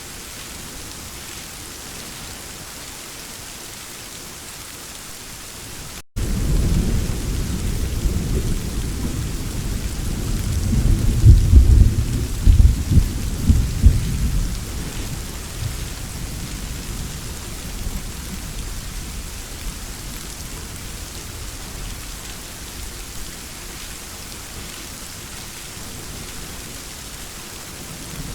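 Steady rain falling with a thunderstorm: about six seconds in, after a momentary break in the sound, a low thunder rumble starts abruptly, swells to its loudest with a few sharp cracks partway through, then rolls away into the rain.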